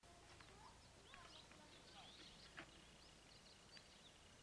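Faint outdoor ambience with scattered short bird chirps and whistles, joined past the middle by a thin, steady high tone.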